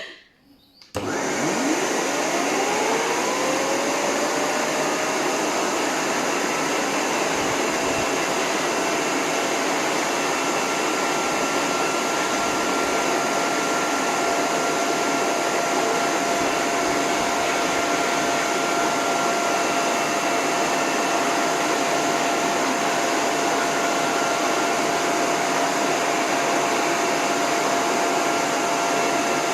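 Dog grooming hose dryer switched on about a second in: a motor whine rises as it spins up over a few seconds, then it runs steadily with a loud rush of air. It is on its low setting with the end nozzle taken off the hose to make it quieter and less powerful.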